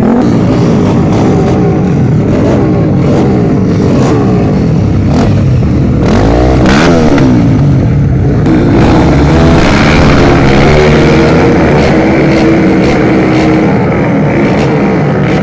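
Several drag-racing motorcycle engines revving, loud, their overlapping pitches rising and falling as throttles open and close.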